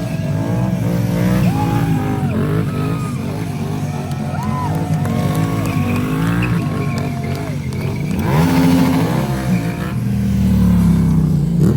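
Stunt motorcycle engine revving hard and repeatedly, the pitch climbing and falling with the throttle, with tires squealing against the pavement.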